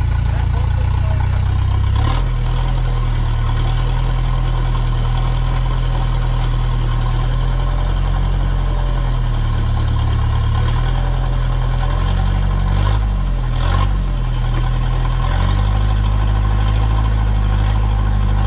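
Toyota Hilux turbo diesel engine of a rock-crawling truck running at low revs, its note dropping and rising a few times as the throttle changes, with a few sharp knocks.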